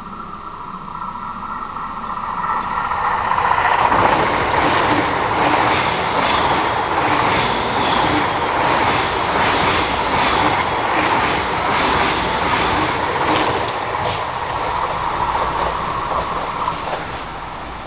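Electric train passing on a mainline. It comes up over the first few seconds with a whine that drops in pitch as it arrives, then runs loud with a regular clatter of wheels over the rails, and fades near the end.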